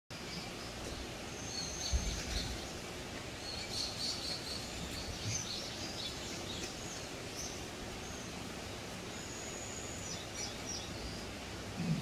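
Small birds chirping and giving short whistled calls on and off over a steady background hiss, with a low thump about two seconds in.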